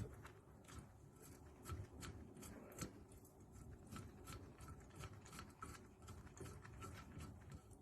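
Near silence broken by faint, irregular small clicks and light taps, typical of hand tools and parts being handled on an engine being stripped down.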